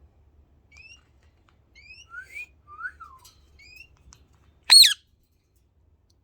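Pet parakeet chirping: a series of short, rising whistled chirps, then one loud, sharp call about five seconds in.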